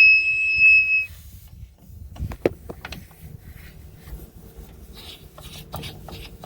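Gas whistling out of a cracked-open fitting as the water heater's gas line is purged of air: a steady high-pitched whistle that stops about a second in. Faint clicks and taps follow.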